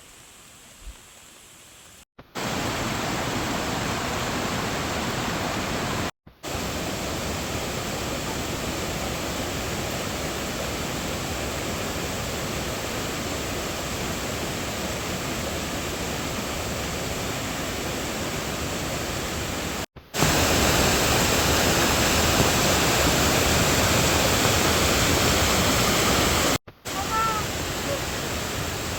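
Steady rushing noise, like running water or wind on the microphone, in several segments that cut in and out abruptly. The stretch near the end is louder.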